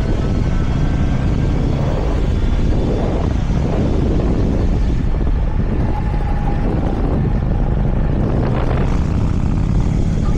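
Motorcycle riding at steady speed: engine and wind rushing over a helmet or bike microphone in one dense, unbroken noise.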